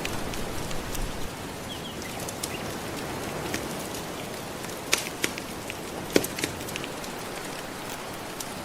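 Soft ocean waves washing steadily on the shore, mixed with a crackling wood fire that gives scattered sharp pops, the loudest about five and six seconds in.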